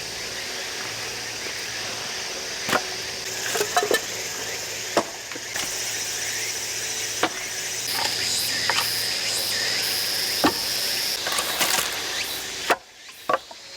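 Heavy hammer axe striking and splitting firewood: a series of sharp wooden cracks a second or two apart. Insects keep up a steady high-pitched trill behind them.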